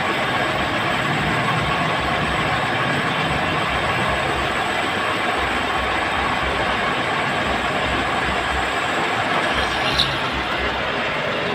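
Tractor engine running steadily, with a sharp click about ten seconds in.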